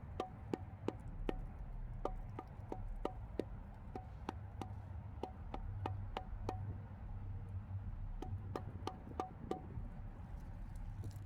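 A series of sharp clicks, each with a short metallic ring, coming in irregular runs of several with brief pauses between them.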